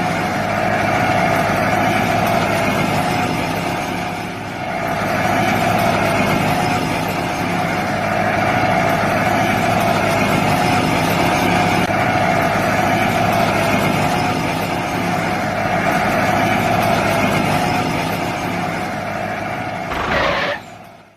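Small motor of a homemade miniature tractor running steadily with a constant whine, easing briefly about four seconds in and stopping just before the end.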